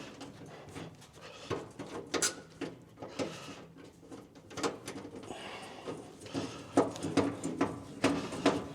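Scattered knocks, clicks and rattles at irregular intervals, the sharpest about seven seconds in.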